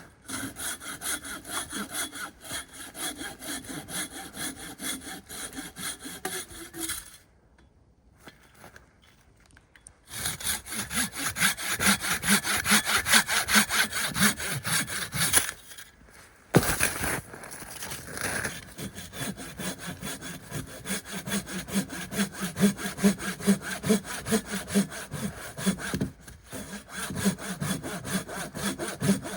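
Hand saw cutting wood in quick, regular back-and-forth strokes. It stops for a few seconds about a quarter of the way in, then carries on with brief pauses.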